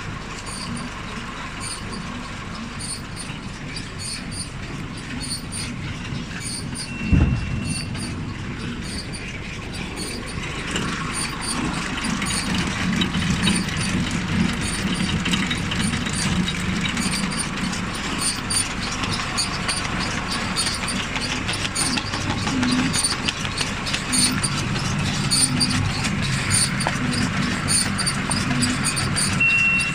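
John Deere 575 round baler's mechanism running over: a steady mechanical clatter and rattle that grows louder about ten seconds in. A single sharp knock comes about seven seconds in, and a brief high squeal near the end.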